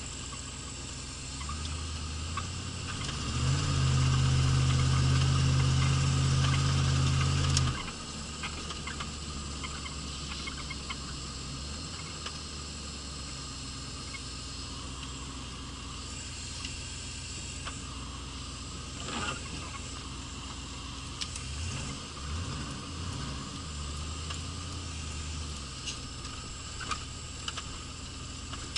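1983 Pontiac Trans Am's 305 small-block V8 being driven: it revs up about three seconds in, holds loud at steady high revs for about four seconds, then drops back suddenly to a low, steady run. Near the end come a few short rev blips.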